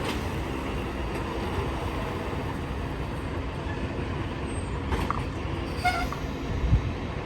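Steady low rumble of a semi truck's diesel engine running at low speed while manoeuvring, with a few faint clicks and a short squeak about five to six seconds in.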